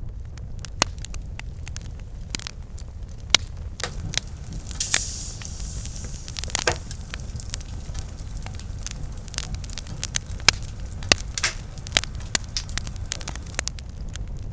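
Campfire crackling, with sharp irregular pops and snaps over a steady low rumble of the flames, and a brief hiss about five seconds in.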